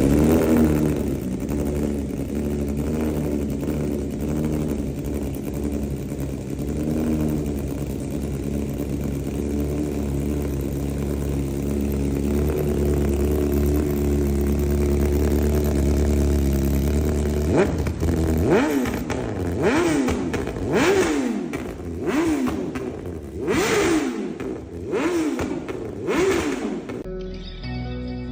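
Motorcycle engine running at a steady speed, then revved in a series of quick throttle blips, about one a second, each rising and falling in pitch. Music comes in near the end.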